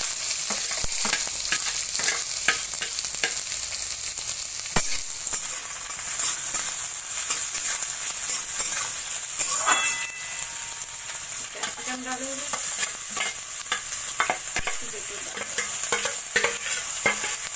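Sliced onions sizzling and frying in hot mustard oil in a kadhai, stirred with a steel spatula that scrapes and clicks against the pan. Near the end, grated beetroot and chopped capsicum are tipped in.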